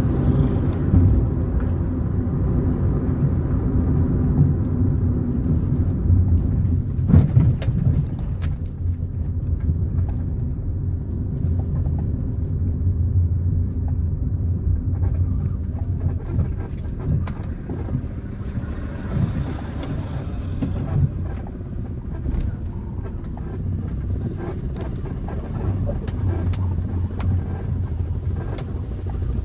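Car driving on the road: a steady low engine and tyre rumble, with scattered small knocks and rattles. One sharper knock comes about seven seconds in.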